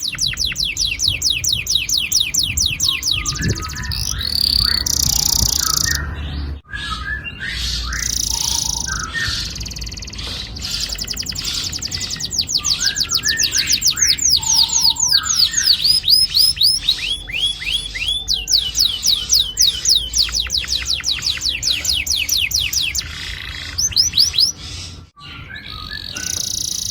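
Domestic canary singing long rolling trills: runs of rapid, evenly repeated notes with a few short breaks and lower chirps between the rolls.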